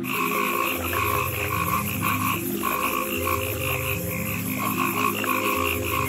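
Frogs calling in repeated pulsed croaks, over soft background music with low sustained notes.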